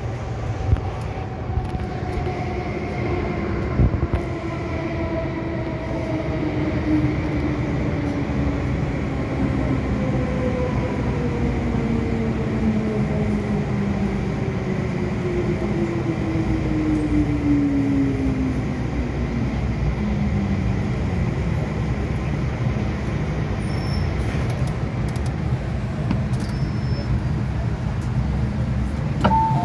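MTR M-Train electric multiple unit running on the Kwun Tong Line: steady rail rumble with its traction motor whine falling slowly in pitch as the train slows over about twenty seconds. A short two-note chime begins right at the end.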